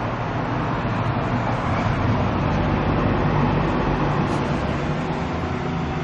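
A vehicle engine running steadily, with an even hiss over it.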